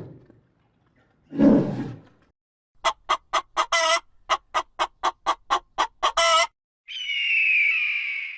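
Bird calls: a brief low call, then a quick series of about fourteen short calls at roughly four a second, then one long, higher-pitched call near the end.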